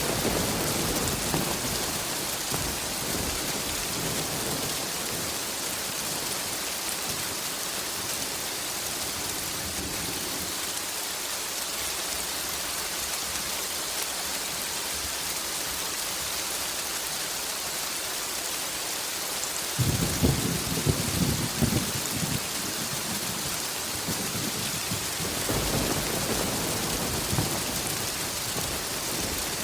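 Steady rain hissing throughout, with thunder rolling over it: a rumble fading at the start, the loudest, crackling thunderclap about twenty seconds in, and a softer roll a few seconds later.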